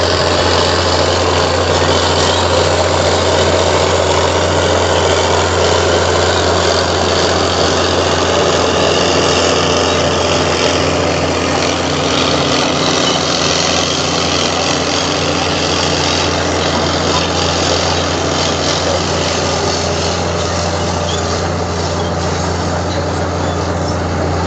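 Heavy diesel earthmoving machine running steadily at a constant engine speed: a steady deep hum under a dense mechanical noise, with no revving or pauses.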